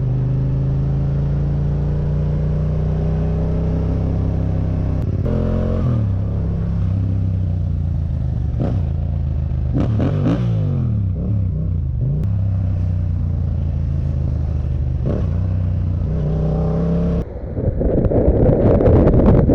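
Motorcycle engine running steadily while riding, its pitch rising and falling twice as the revs change, about five seconds in and again about ten seconds in. Near the end, the sound switches abruptly to wind buffeting the microphone.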